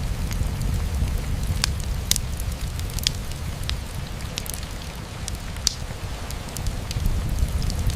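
Steady rain against a window mixed with a wood fire in a fireplace, a constant low rumble under a soft hiss, with scattered sharp crackles and pops.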